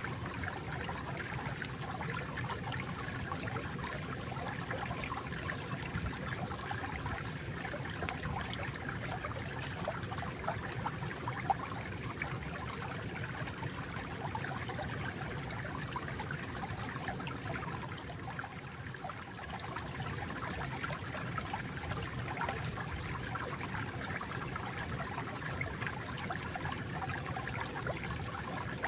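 Water flowing and trickling steadily, with a fine bubbling texture and no distinct events.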